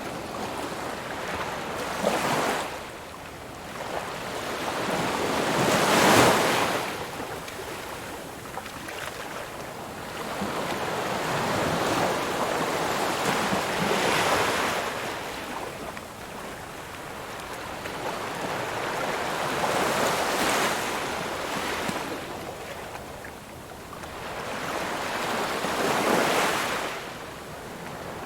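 Ocean waves surging and washing back. The surf swells and fades about every six seconds, loudest a few seconds in.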